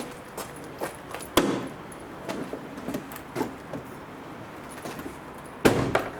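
Scattered light clinks and knocks of gear being handled, with two louder knocks, about a second and a half in and again near the end.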